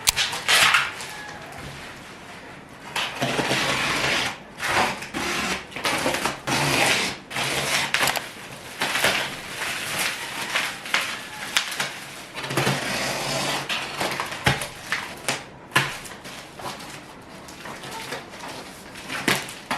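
Irregular handling noises: rustling and crinkling with many light clicks and knocks as objects are moved about.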